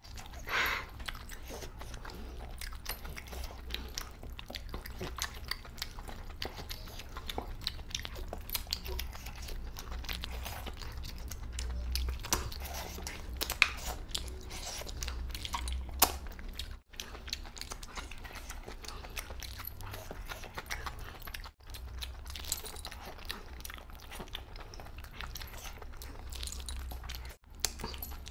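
Close-miked chewing and biting of mutton curry eaten by hand, with many small sharp clicks from the mouth and fingers. The sound breaks off briefly three times.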